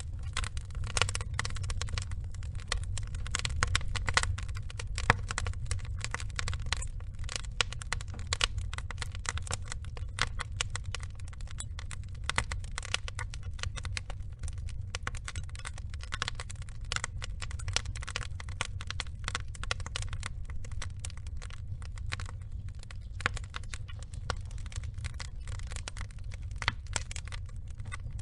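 Burning logs crackling steadily, a dense run of small irregular pops and snaps over a low, steady rumble.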